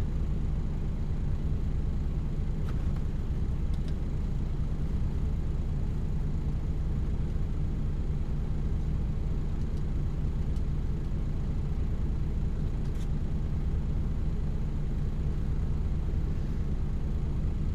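Lorry's diesel engine running steadily, a constant low drone heard from inside the cab, with a few faint ticks.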